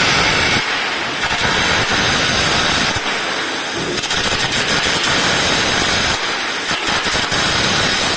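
Gouging machine working steel: a loud, steady rushing hiss with a rough, irregular crackle underneath that thins out briefly a few times.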